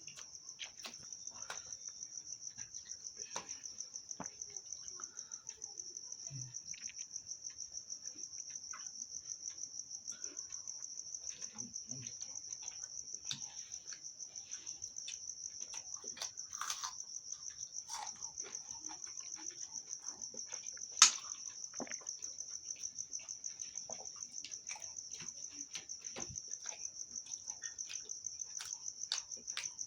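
A cricket chirping steadily in a fast, even pulse, with scattered soft clicks of someone eating over it and one sharper click about two-thirds of the way through.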